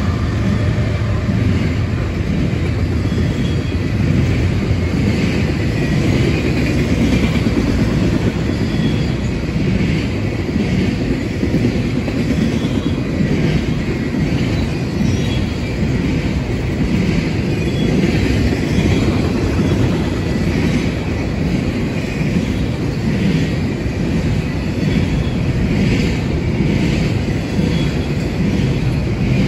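A train's cars rolling steadily past on the rails, a continuous rumble with faint repeated clacks of the wheels.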